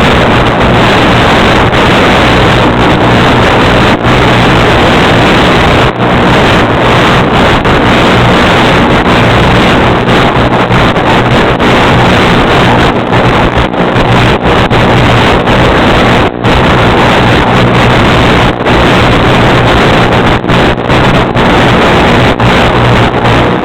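Loud, steady drone of a small electric motor and propeller, with wind rushing over the microphone and brief dropouts in the sound now and then.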